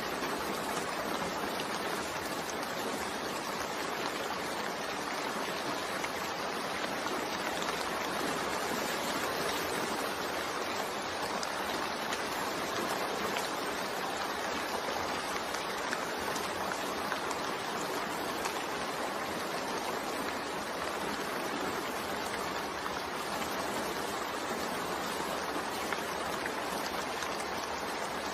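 Continuous rain blended with white noise: a steady, even hiss with no separate drops, thunder or pauses.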